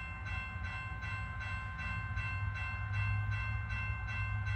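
Train running: a steady low rumble with several high steady whining tones above it and a regular pulse about three times a second.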